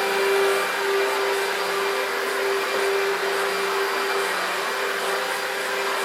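Electrolux Contour Z1501 upright vacuum cleaner's 1300 W motor running steadily, with a constant whine over the rush of air.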